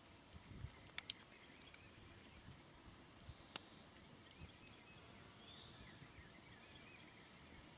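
Smoldering campfire giving a few sharp crackles and pops, the strongest about one second in and again midway, with birds singing faintly in the background.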